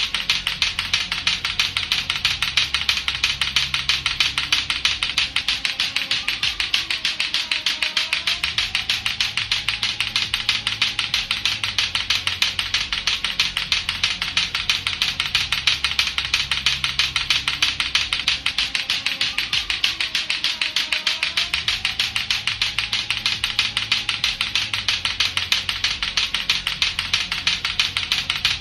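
Latto-latto clackers, two hard plastic balls on a string knocking together in a rapid, steady clacking, over a quieter low, repeating musical background.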